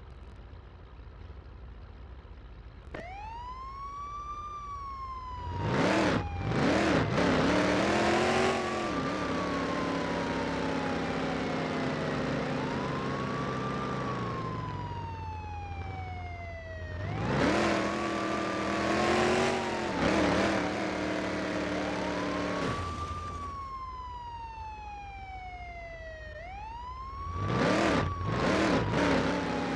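Police siren wailing: a tone that sweeps quickly up and then slowly down, repeating and overlapping. Three times a louder, lower warbling blast cuts in over it.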